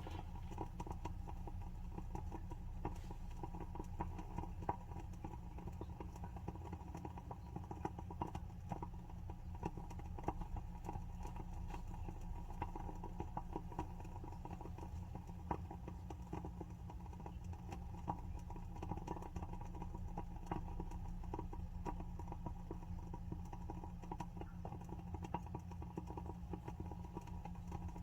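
WoodWick candle's wooden wick crackling as it burns: a dense, irregular stream of small pops and ticks over a low steady hum.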